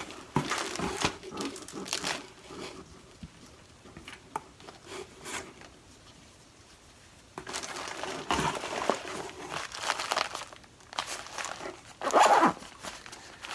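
Plastic packaging and small first-aid kit items crinkling and rustling as they are handled, in irregular bursts with a quieter stretch in the middle and a louder rustle near the end.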